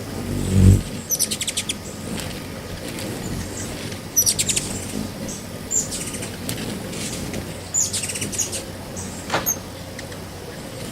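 Birds chirping in short, rapid runs of high, clicky chips, about four bursts over ten seconds. A low thump comes about half a second in.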